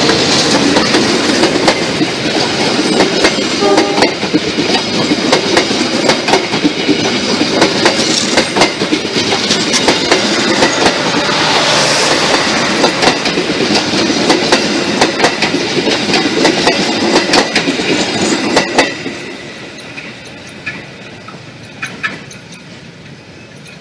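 A passenger train hauled by a CC201 diesel-electric locomotive passes close by: the locomotive at the start, then its coaches, wheels clacking over the rail joints with a steady rumble. The sound drops away sharply about nineteen seconds in as the last coach goes by.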